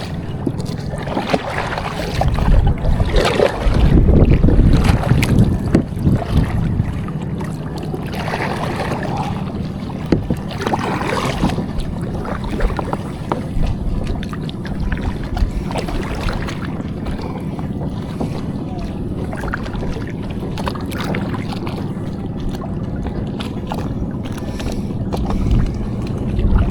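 Wind buffeting the microphone over water lapping against a fishing kayak's hull, with a louder gusty stretch a couple of seconds in and a few small knocks.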